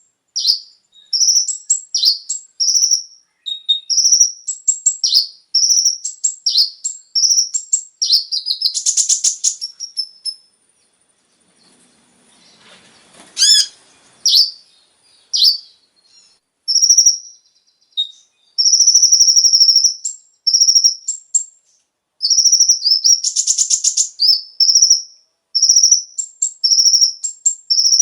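Kolibri ninja (konin) sunbird singing: strings of quick, high chirps with two fast buzzy trills and a short pause near the middle.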